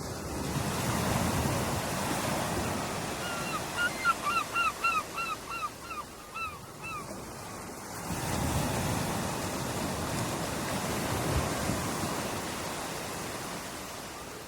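Ocean surf: two waves swell, break and wash out, one after the other. A few seconds in, a bird over the surf gives a quick series of about a dozen short falling calls, the loudest sound, lasting some three seconds.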